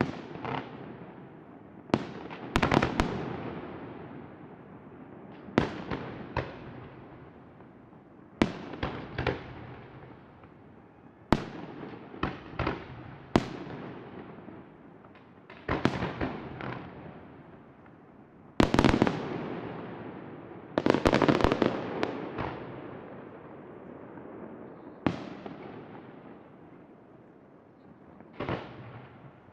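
Aerial fireworks going off: sharp bangs every two to three seconds, some in quick clusters of several, each followed by a long echoing rumble that dies away.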